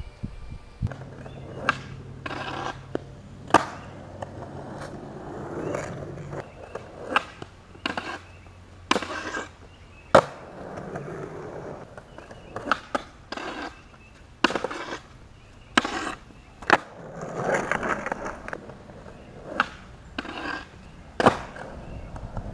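Skateboard rolling on hard ground, with many sharp clacks of the tail popping and the board and wheels landing, irregularly spaced over a steady rolling rumble.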